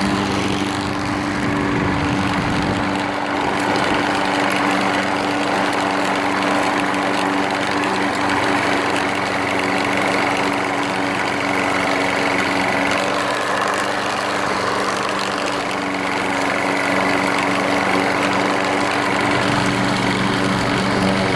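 Troy-Bilt front-wheel-drive walk-behind mower's small engine running at a steady pitch, with no revving or stopping.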